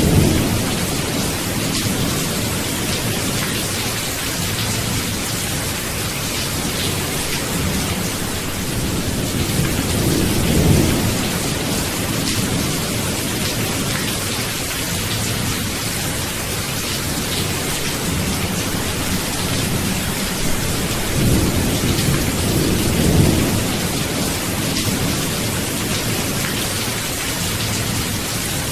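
Steady rain in a thunderstorm, with low rolls of thunder swelling up three times, at the start, in the middle and near the end.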